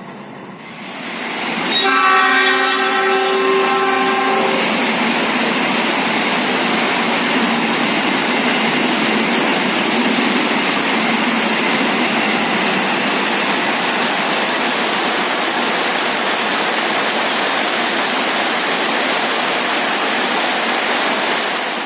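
CC 201 diesel-electric locomotive sounding its horn, a chord of steady tones held for about three seconds starting about two seconds in. Then the steady noise of the train passing.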